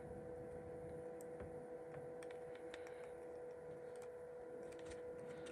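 Faint, scattered light clicks and taps of small phone parts and flex-cable connectors being handled during reassembly, over a steady electrical hum.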